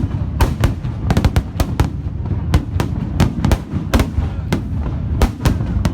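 Fireworks exploding in quick succession: an irregular run of sharp bangs, several a second, over a continuous low rumble.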